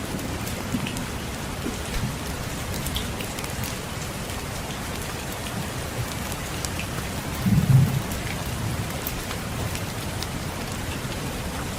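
Steady rain with scattered small fireplace crackles, and a brief low rumble about eight seconds in.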